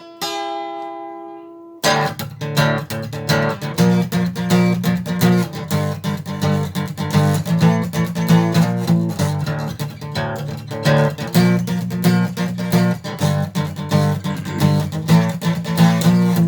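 Instrumental music: a held chord rings out and fades, then about two seconds in a strummed acoustic guitar comes in in a steady rhythm over a bass line.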